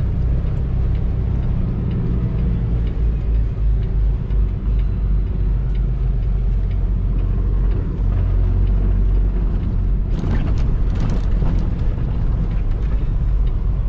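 Semi truck's diesel engine running, heard from inside the cab, with the engine note changing about three seconds in. A short stretch of hiss and clicks comes about ten seconds in.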